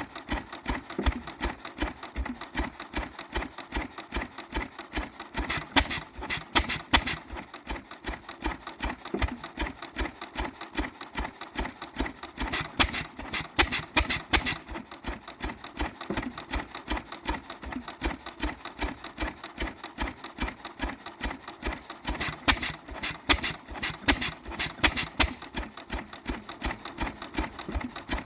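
Bartram A.K 5 hp stationary engine running with a steady, rapid, even beat, with clusters of louder, sharper beats every several seconds.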